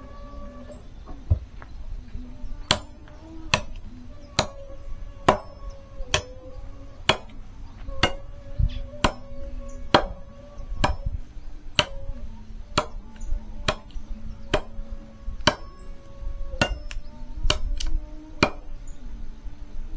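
Firewood being chopped by hand: a blade strikes the wood in sharp, regular blows, about one a second.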